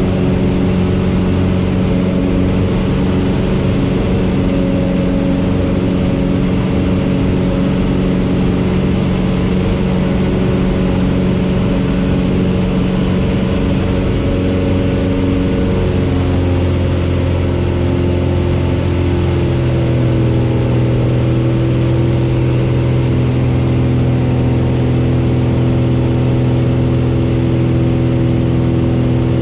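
Cessna 172's four-cylinder piston engine and propeller running steadily, with the engine note shifting to a different pitch about two-thirds of the way through as the power setting changes.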